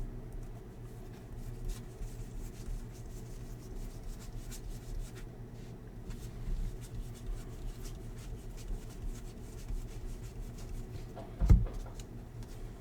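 Baseball trading cards being handled and slid through the hands: faint rustles and light clicks over a steady low hum, with one short thump about eleven and a half seconds in.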